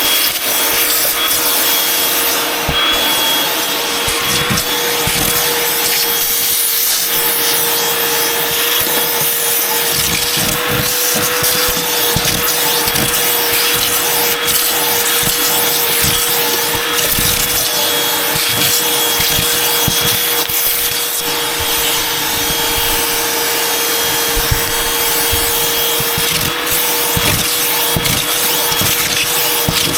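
Vacuum cleaner running steadily with a constant motor whine, with irregular low bumps and rubbing as it is worked over the floor.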